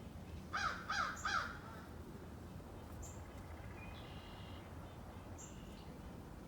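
A crow cawing three times in quick succession, loud and harsh. Later come a few faint, high, thin calls of smaller birds, over a steady low background rumble.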